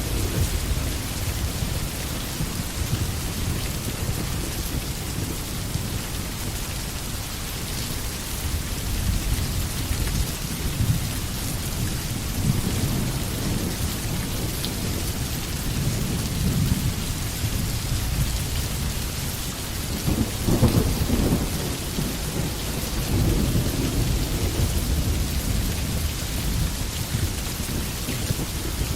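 Steady rain falling in a forest, a continuous hiss of drops with a deep low rumble beneath it that swells for a moment about two-thirds of the way through.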